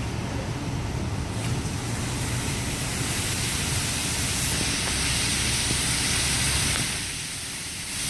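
WashWorld Razor in-bay automatic car wash running: a steady low motor hum under a rushing hiss. The hiss grows louder about four and a half seconds in and drops away briefly near the end.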